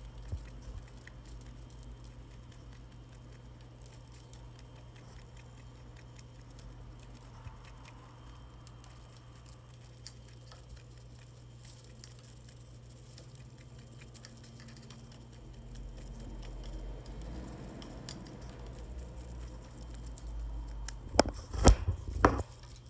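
Pet rabbit moving about, with faint pattering and small ticks over a low steady hum. Near the end come a few loud knocks close to the microphone.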